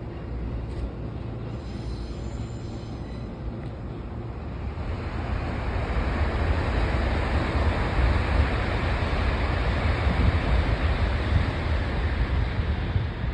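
Meitetsu electric train pulling slowly into the platform: a steady rumbling hiss of wheels and running gear that swells about five seconds in as the front cars pass close by.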